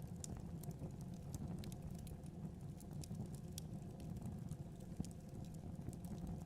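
Wood fire burning in a fireplace: a steady low rumble of flames with irregular crackles and small pops throughout.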